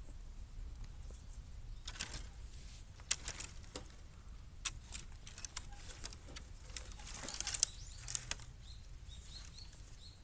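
Bamboo burning in a fire inside a bottomless 18-litre square can, crackling with irregular sharp snaps and pops, thickest about seven seconds in.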